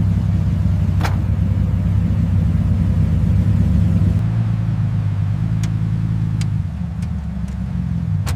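A car engine running at low, fairly steady revs, a deep rumble whose pitch shifts slightly a couple of times, with a few short sharp clicks over it.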